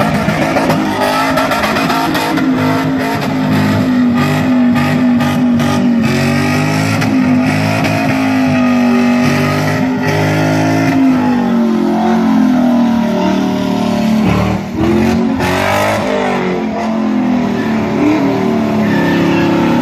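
Supercharged car engine revving hard with the throttle worked up and down while it spins its rear tyres in donuts on wet tarmac. The revs drop briefly about 15 seconds in, then pick up again.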